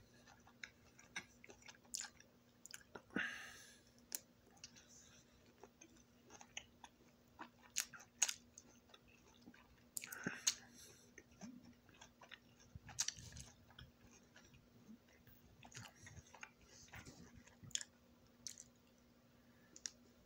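A person chewing and biting orange slices close to the microphone: irregular short mouth clicks and smacks, with louder bursts about three and ten seconds in.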